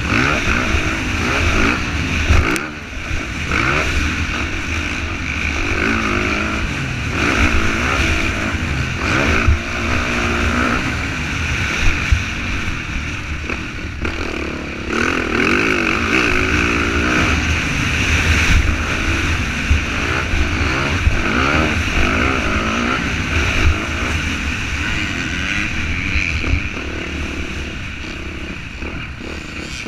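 Motocross dirt bike engine revving up and falling back over and over, its pitch climbing and dropping as the throttle is worked through the gears around the track.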